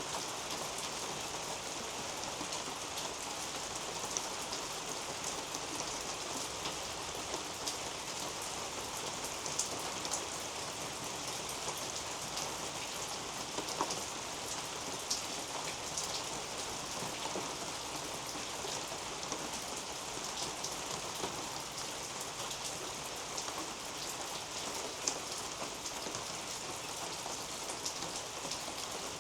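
Steady rain falling on garden foliage, an even patter with scattered single drops ticking close by.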